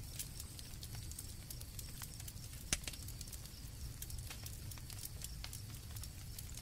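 Campfire crackling: irregular small pops, one sharper pop a little under three seconds in, over a low steady rumble of the fire, with crickets trilling high in the background.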